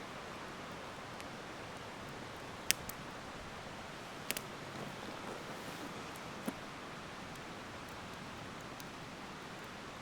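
Wood campfire crackling: a steady hiss broken by a few sharp pops, the loudest about a third of the way in.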